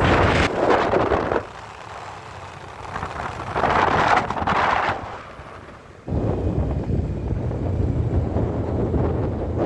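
Wind buffeting the microphone in gusts over a low rumble. It dies down after about a second and a half, with one more gust around four seconds in, then comes back abruptly about six seconds in.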